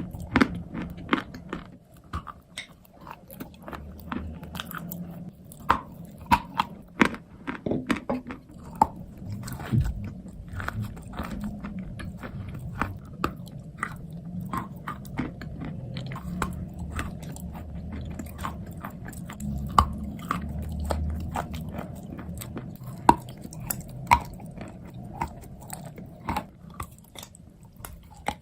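A person biting and chewing hard, dry pieces of chalk and clay close to the microphone. There are many sharp, irregular crunches over a continuous low grinding of chewing.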